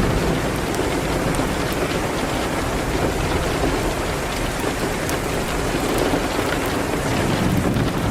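Steady rain on a window glass, with a few faint sharp ticks.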